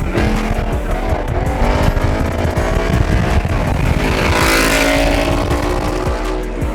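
A car engine revving hard, its pitch climbing as it accelerates, with a burst of noise about four to five seconds in and a second climb after it.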